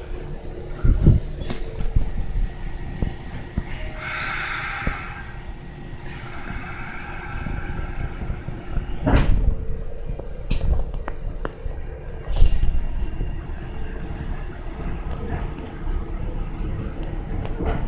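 Inside a Kintetsu local train pulling out of the station: a low running rumble with a steady hum, and scattered knocks and clicks from the wheels and car body.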